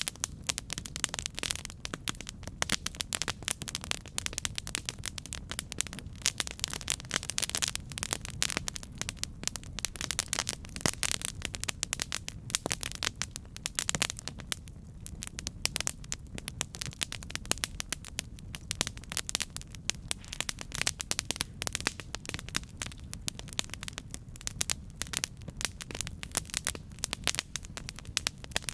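Campfire burning, with a constant dense crackling of wood, irregular sharp snaps and pops over a low steady rumble of the flames.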